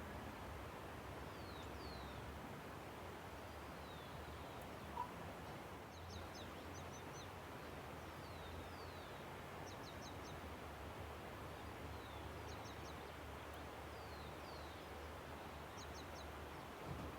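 Steady rush of a river with small birds calling over it: repeated thin downward-sliding whistles and short quick runs of high notes every couple of seconds. A single brief tick about five seconds in.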